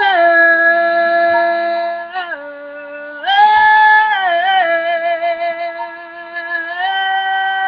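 A singing voice holding long wordless notes, each one to three seconds, with short slides between pitches.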